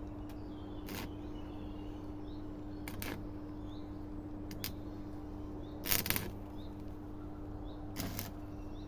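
A few short, sharp clicks a second or two apart over a steady electrical hum, the loudest click about six seconds in.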